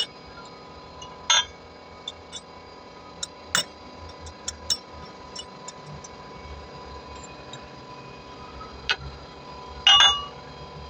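Metal parts and tools being handled in a workshop: a dozen sharp clicks and clanks, a few of them ringing briefly, the loudest one near the end, over a steady faint hum.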